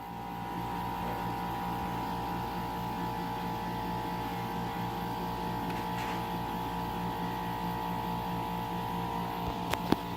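Paris Rhone 10200 BTU window air conditioner in cool mode giving a steady electrical hum while no air blows out, a sign of the unit malfunctioning. The hum grows a little louder about half a second in, and a couple of sharp clicks come near the end.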